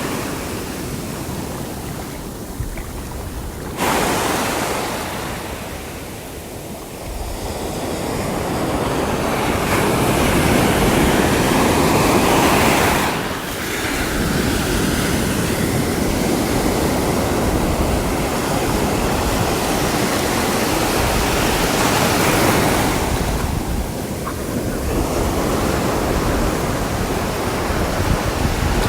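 Sea waves breaking and surf washing up and back, in a steady rushing noise that swells and ebbs. A wave comes in suddenly about four seconds in and builds to its loudest around twelve seconds. Wind rumbles on the microphone.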